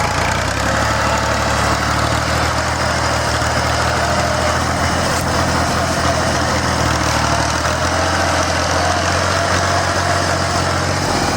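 Tractor's diesel engine running steadily and loud, with a low, even drone.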